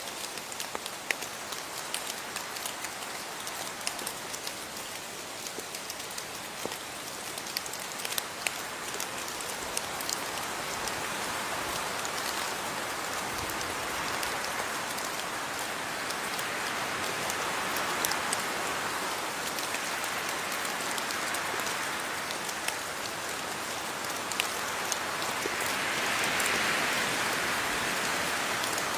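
Steady rain falling, a constant hiss with many separate drops ticking on a surface. The downpour swells a little heavier in the second half, strongest near the end.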